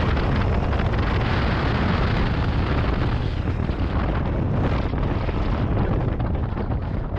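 Strong wind buffeting the microphone: a steady, loud low rumble of gusts with no let-up.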